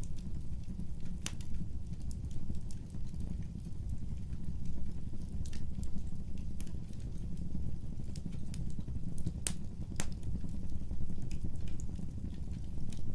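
Wood fire burning: a steady low rumble of flames under scattered crackles, with a few sharp pops, two of them close together near the end.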